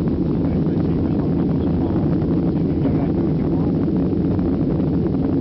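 Jet airliner's engines and airframe rumbling steadily inside the passenger cabin during takeoff, a loud, even deep roar, with faint passenger voices under it.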